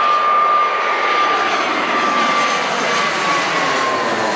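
Jet airliner passing close overhead: a loud, steady engine rush with a high whine that slowly drops in pitch as it goes by.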